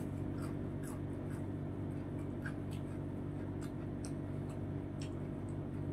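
A man chewing food quietly, with faint soft mouth clicks, over a steady low hum.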